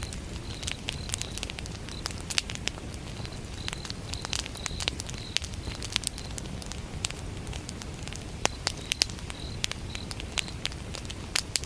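Wood fire burning, crackling with frequent sharp pops over a low steady rumble, while a cricket chirps in short, evenly repeated pulses.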